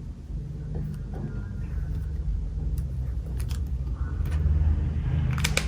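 Vintage brass Zippo lighter being handled, with a few sharp metallic clicks of the lid and hinge near the end, over a steady low rumble.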